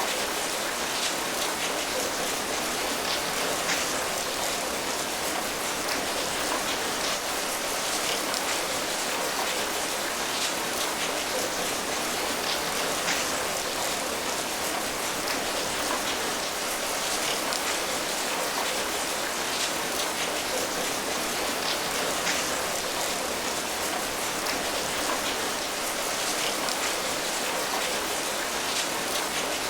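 Steady rain falling, a continuous hiss of patter with many small drop ticks, even in level throughout.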